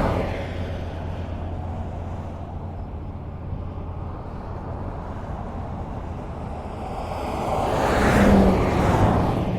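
Highway traffic: a steady rush of tyre and engine noise, with one vehicle passing close by about eight seconds in, its sound swelling and then fading.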